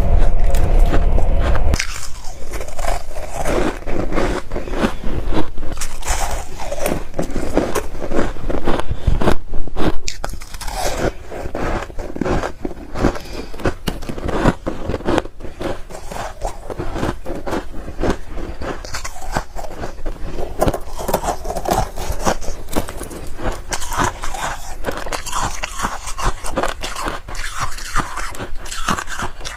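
Close-up biting and chewing of frost ice: a dense run of crisp crunches, loudest in the first couple of seconds.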